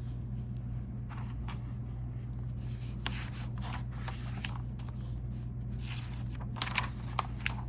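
Soft rustling and scraping of paper being handled, as of a picture book's pages being turned, with a few light clicks near the end, over a steady low electrical hum.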